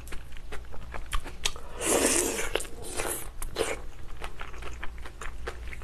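Close-miked chewing of a mouthful of shrimp noodle soup: wet mouth clicks and small crunches, with a louder wet rush of noise about two seconds in and shorter ones a second or so later.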